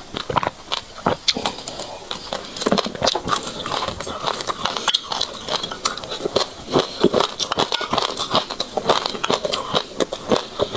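Crunchy chewing of mouthfuls of dry sesame seeds: dense, irregular crackling and crunching, close up.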